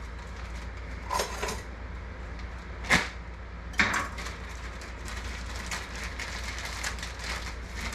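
A plastic bag of coleslaw mix being handled and opened in a kitchen: a couple of sharp clicks, then a run of light crinkling over a low steady hum.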